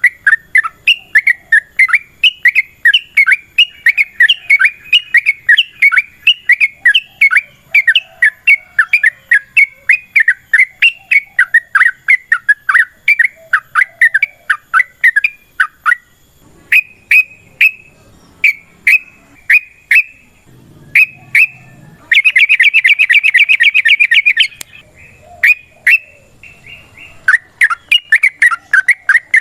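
Yellow-vented bulbul singing a chattering string of sharp notes, about three a second, then spaced-out calls. About two thirds of the way in it breaks into a rapid trill lasting a couple of seconds, its long rolling 'ropel' song.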